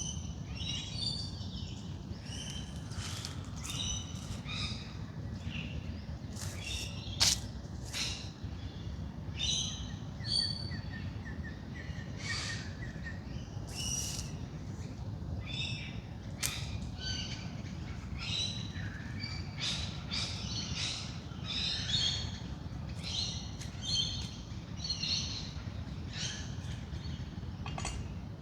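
Dawn chorus: many wild birds chirping and calling over one another in short, overlapping notes, over a steady low background rumble.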